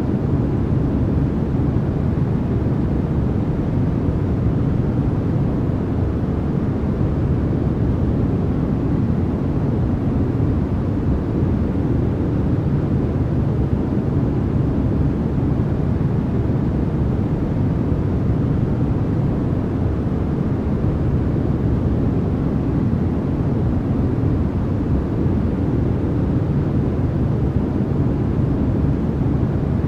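Continuous generated white noise, steady and unchanging. Most of its energy sits low down, so it is a deep, even rush rather than a bright hiss.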